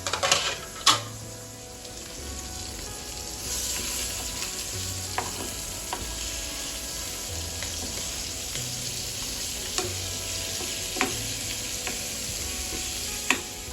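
Sardines frying in hot oil in a pan, a steady sizzle that gets louder a few seconds in, with a few sharp clinks of utensils against cookware. Soft background music sits underneath.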